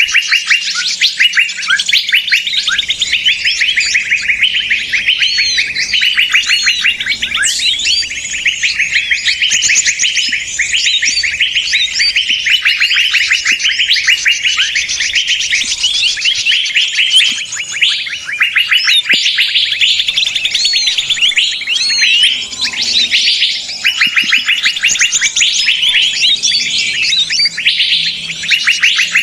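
Bird-lure recording of a noisy crowd of small songbirds chattering and calling at once, fast repeated chirps overlapping with short whistled notes without a break. A 'ribut' lure of the kind played to draw small birds in.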